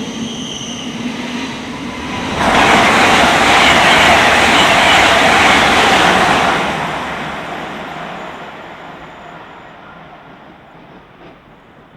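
Passenger train passing through a station at speed. A loud rush of wheels on rail and moving air lasts about four seconds, then dies away gradually as the train recedes.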